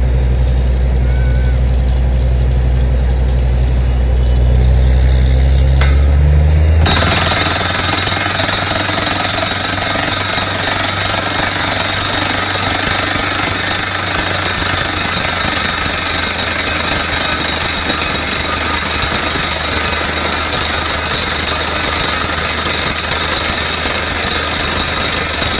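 Borewell drilling rig: the rig's engine drones loud and low. About seven seconds in, the drilling hammer starts abruptly, a loud continuous hammering rattle that carries on to the end.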